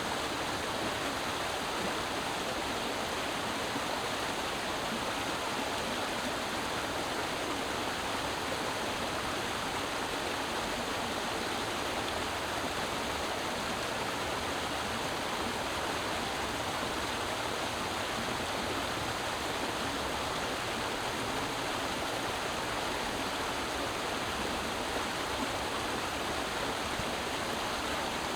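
Creek water running over rocks: a steady, even rush that does not change.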